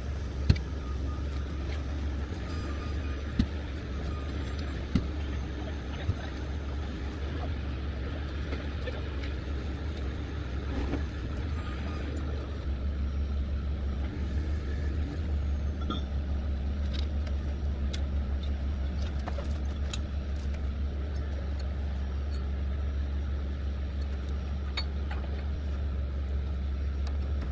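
Large diesel engine idling steadily with a low drone, with a few sharp metallic clanks in the first several seconds.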